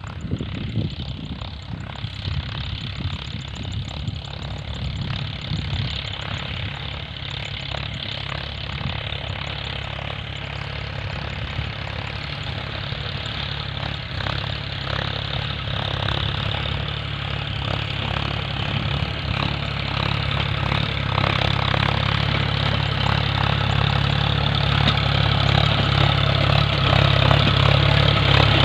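John Deere tractor engine running steadily while plowing, getting louder over the second half as it works closer.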